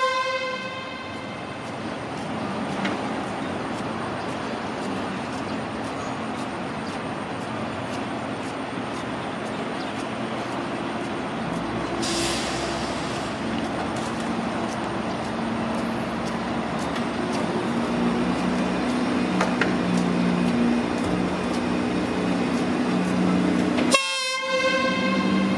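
Train horn blowing briefly at the very start and again near the end, a single pitched tone with many overtones. Between the two blasts, steady train noise, a short hiss about halfway through, and a low hum that grows louder in the second half.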